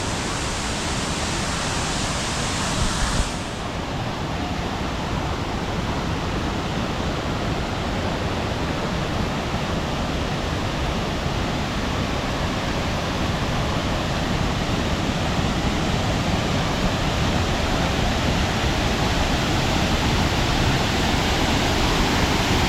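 Waterfall rushing: a steady wash of falling water that slowly grows louder. About three seconds in there is a small bump, and the sound changes slightly after it.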